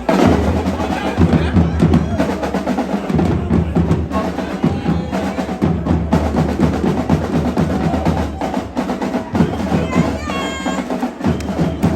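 Drum line playing a rapid rhythm on snare and bass drums, with voices in the background.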